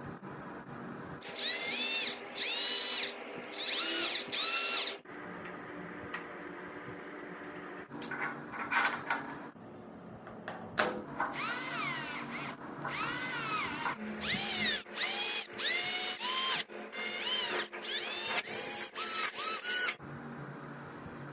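Small electric drill or driver run in repeated short bursts, each one winding up in pitch and then dropping away as the trigger is released.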